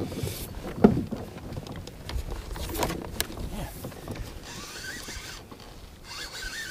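Handling noise of fishing gear in a kayak: a sharp knock about a second in, then small clicks and rattles. In the second half a spinning reel is cranked with a faint whirring rasp as a hooked trout is reeled in.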